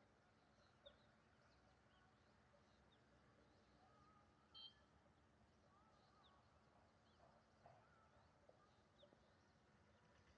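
Near silence with faint, scattered bird chirps, one a little louder about halfway through.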